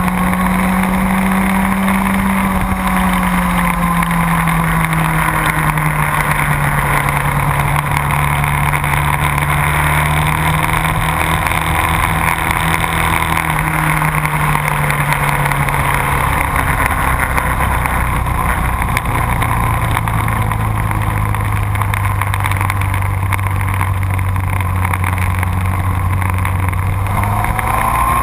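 Sport motorcycle engine running on track at fairly steady revs: its pitch sags slowly, steps lower about halfway and holds, then rises sharply as it accelerates near the end, with a steady rush of noise underneath.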